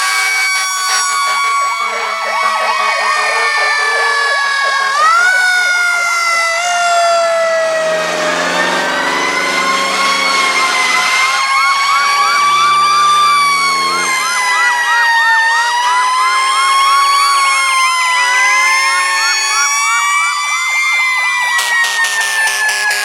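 Several fire engine sirens sounding at once, overlapping wails slowly rising and falling in pitch. A fast warbling siren joins in the middle, and a low horn sounds from about eight seconds in.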